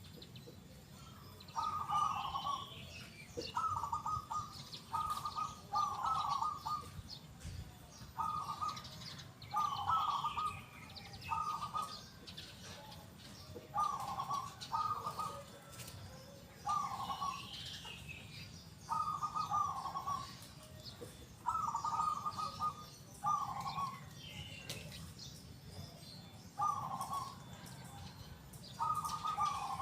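Zebra dove (perkutut) cooing in a loud, clear song: short rippling phrases ending in a big 'kung' note, repeated every one to two seconds, sometimes two in quick succession. Fainter chirps of other small birds sound higher behind it.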